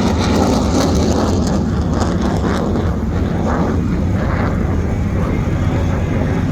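F-16 fighter jet flying a display pass: loud, steady jet engine noise with a crackling texture, easing off slightly about three seconds in.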